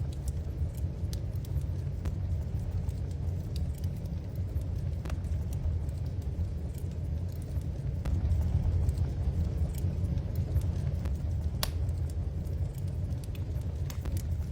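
Wood fire burning in a fireplace, with scattered sharp crackles and pops over a steady low rumble.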